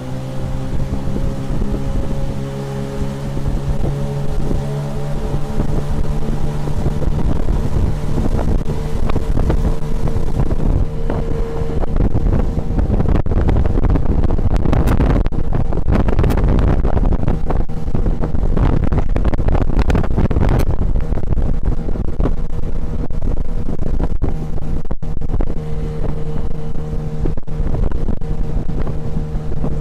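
Tohatsu 9.8 outboard motor running steadily, pushing an inflatable boat. About eight seconds in, loud wind on the microphone and rushing water swell up and drown the motor's note through the middle. The engine note comes through clearly again near the end.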